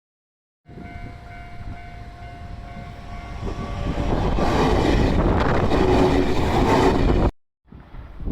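A train approaching and passing, a few steady tones over its running noise at first, then growing much louder about halfway through before cutting off suddenly near the end.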